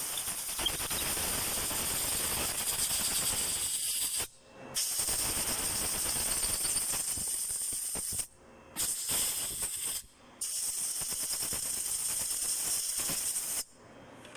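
Aerosol contact cleaner spraying in four long hissing bursts of a few seconds each, with short breaks between, used to clean electrical contacts in a no-crank starting circuit.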